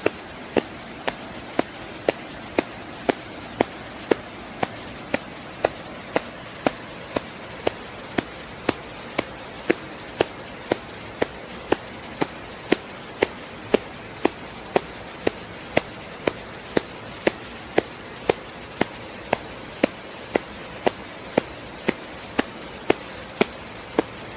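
Sharp, even knocks at a steady pace of about two a second, like a beat kept for an exercise, over a faint steady hiss.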